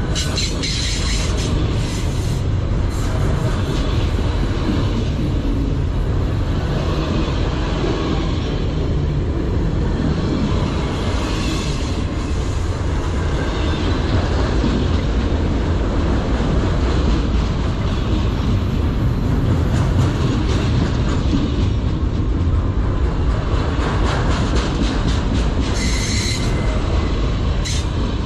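Freight train of autorack cars rolling past close by: a steady heavy rumble of steel wheels on rail with rapid clicking over the joints. A brief high wheel squeal rings out near the end.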